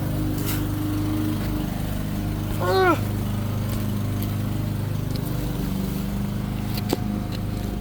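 A small engine or motor drones steadily at a low pitch throughout. About three seconds in there is a brief vocal sound with a falling pitch.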